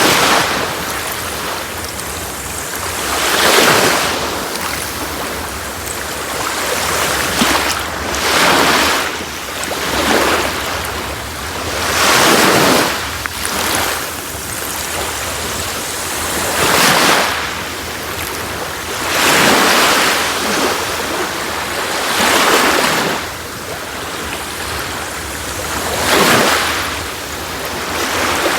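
Sea waves breaking on a beach: about ten surges of rushing surf, one every two to three seconds, over a steady wash of water.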